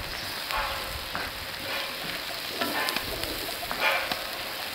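Food sizzling as it fries in a pan over a fire, with a few irregular stirring strokes.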